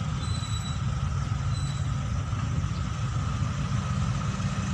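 Car engine idling steadily while stopped, heard from inside the cabin as a constant low rumble.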